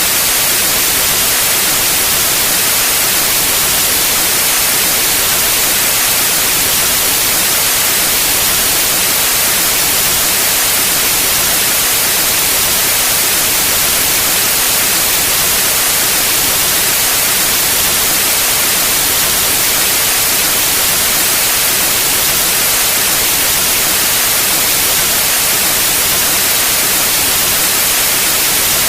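Steady pure white noise: an even, bright hiss that never changes.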